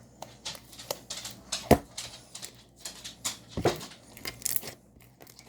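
Dog eating dry dog food: irregular crunches and clicks, with two louder cracks near the middle.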